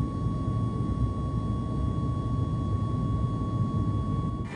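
Airliner cabin noise: a steady low rumble with a thin, steady whine over it, cutting off abruptly near the end.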